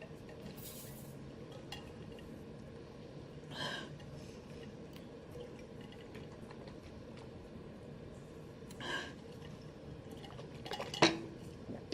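A person drinking water to cool a burning mouth from spicy noodles: mostly quiet, with two short breathy gulps or sips about five seconds apart and a small click near the end.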